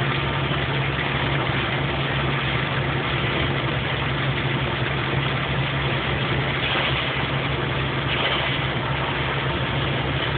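Hail falling in a dense, steady clatter over a constant low engine hum, like a vehicle idling.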